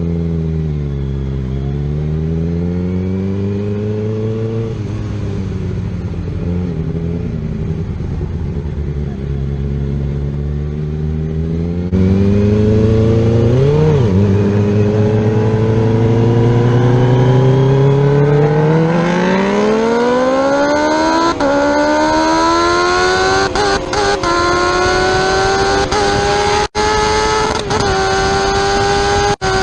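Superbike engine revving: its pitch falls and rises early on, then it accelerates hard through the gears, with brief dips in pitch at each upshift in the second half.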